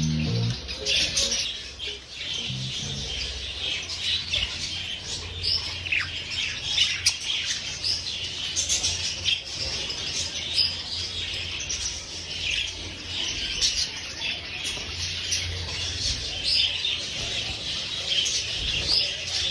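Budgerigars chattering and squawking, with many short chirps overlapping throughout.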